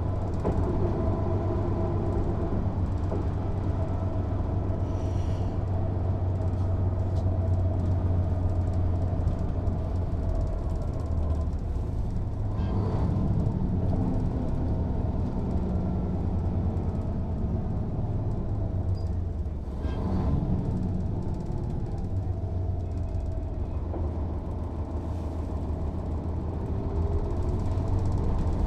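Mercedes-Benz O 407 city bus driving, its diesel engine giving a steady low drone under road rumble, with whining tones that slowly rise and fall in pitch as the bus speeds up and slows. A couple of short knocks come about halfway through and again about two thirds in.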